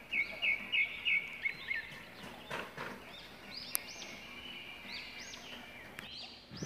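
Small birds calling outdoors: a quick run of about five high chirps in the first second, then repeated short arching, whistled notes through the rest.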